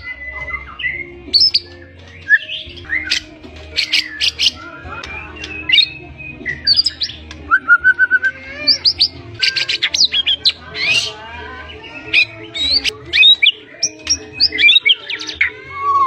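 White-rumped shama singing a loud, fast, varied song of sweeping whistles, sharp chirps and rapid strings of notes, including a longer held whistle about halfway through. A steady low hum runs beneath.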